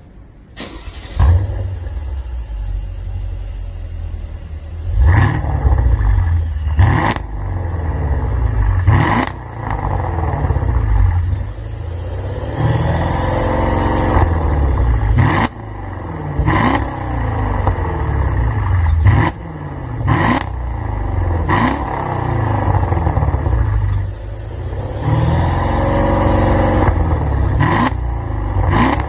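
Mercedes-Benz W222 S550's twin-turbo V8 through an aftermarket valved exhaust with sport resonator, starting up about a second in, then idling and being revved repeatedly with short throttle blips and a couple of longer revs.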